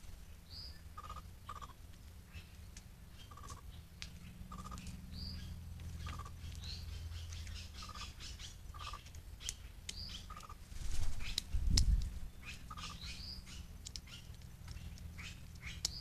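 Birds calling in short repeated notes, a lower note and a higher rising one, about once a second, over scattered ticks and clicks. A brief low thump comes about two-thirds of the way through.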